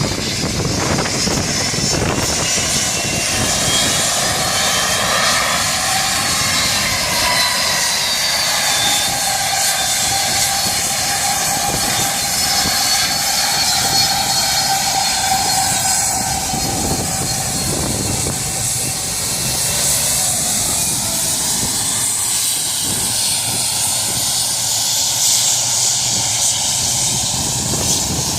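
Boeing 757-200's Rolls-Royce RB211 turbofan engines at takeoff power, heard at close range: a loud, steady jet roar with several whining fan tones that drift slowly up and down in pitch.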